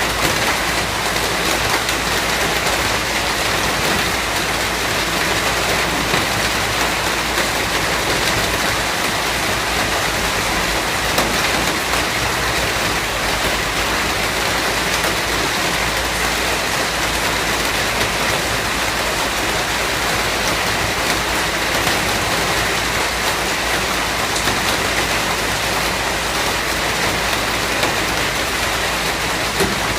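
Steady heavy rain falling, a dense even hiss with many small drop patters.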